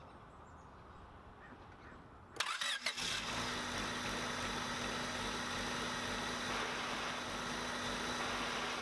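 Honda Civic D16Y7 four-cylinder engine starting about two and a half seconds in, then idling steadily with a constant tone running through it. The engine is idling through a newly swapped-in manual transmission whose input shaft bearing seems to be worn out.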